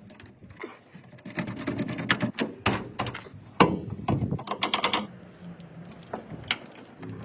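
A string of clicks, knocks and light rattles, densest between about one and five seconds in, then fewer.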